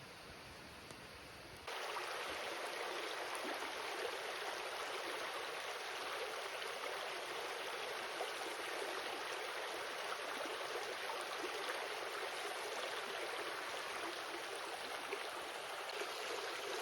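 Mountain creek water rushing steadily over rocks, coming in suddenly about two seconds in after a quieter low hiss.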